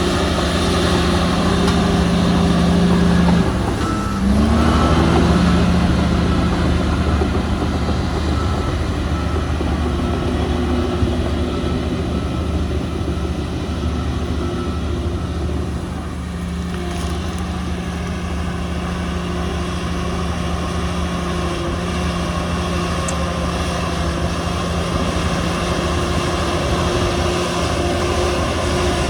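Heavy diesel earthmoving machinery running steadily, its engine dipping and picking up again about four seconds in. A reversing alarm beeps at an even pace for about ten seconds after that.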